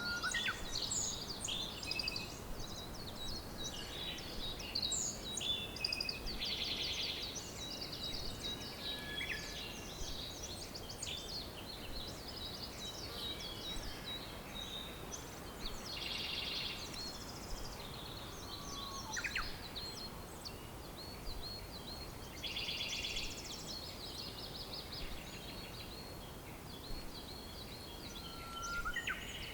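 Several wild birds singing and calling: a dense mix of high chirps and short whistles, with fast rattling trills a few times, over a steady background hiss.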